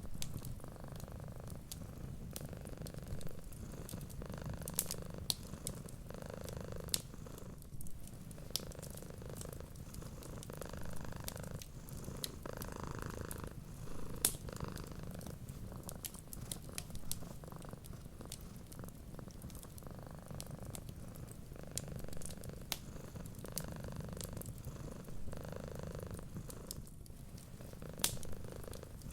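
Domestic cat purring steadily, swelling and easing every second or two with its breathing, with scattered sharp crackles and pops from a wood fire.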